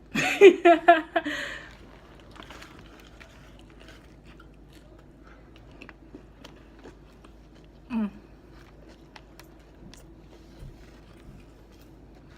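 Close-up mouth sounds of a person chewing and smacking on a sub sandwich, with faint small clicks throughout. A short, loud burst of voice comes in the first second and a half, and a brief voiced sound about eight seconds in.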